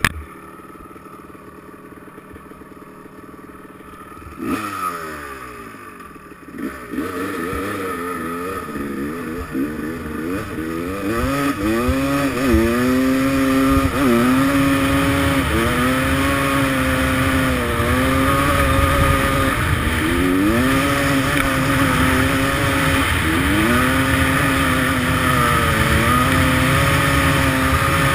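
Dirt bike engine starting to rev about four seconds in, with its pitch climbing and falling, then running loud at high, steady revs with brief dips in pitch every couple of seconds.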